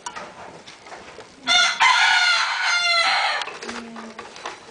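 A kitten's loud, high-pitched meow lasting about two seconds, starting about a second and a half in and falling in pitch at the end.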